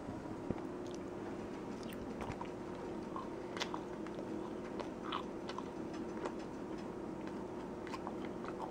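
A person chewing a mouthful of tough, chewy chicken meat: faint, scattered soft clicks of chewing.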